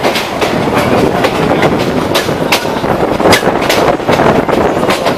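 Local passenger train running, its wheels clattering over the rail joints in quick, uneven clicks over a steady rumble.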